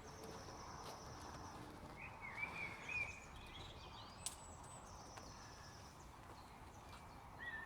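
Faint outdoor background with birds chirping in short warbling phrases, and a long high steady note heard twice. A single sharp click about four seconds in.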